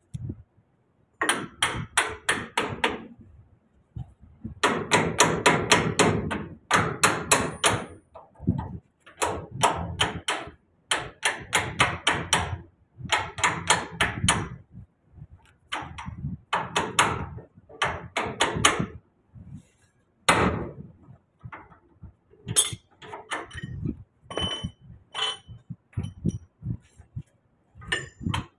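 Impact wrench hammering in repeated bursts of a second or two, rattling bolts loose on a truck. A few ringing metallic clinks come near the end.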